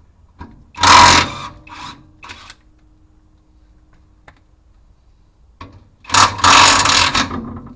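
Impact wrench undoing the bash plate bolts in two bursts: a short one about a second in and a longer one of over a second near the end, with a few small knocks between.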